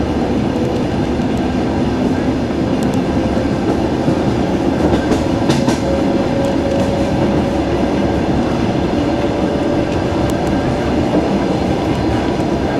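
Diesel-hauled suburban passenger train running at speed, heard from inside the coach: a steady rumble of wheels on the rails, with a few light clicks around the middle.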